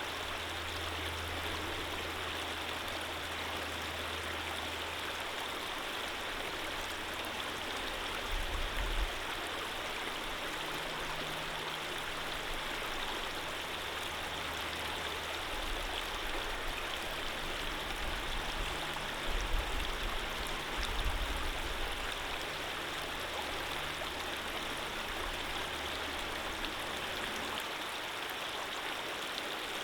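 Running water flowing steadily, an even rushing noise with no break, and a faint low rumble coming and going underneath.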